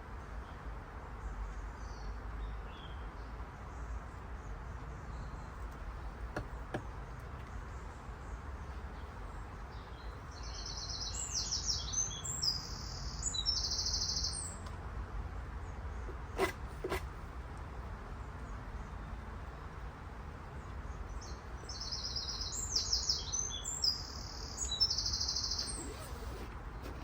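A songbird sings the same short phrase of rapid, high chirping notes twice, about twelve seconds apart. Two sharp knocks come in between, over a steady low rumble.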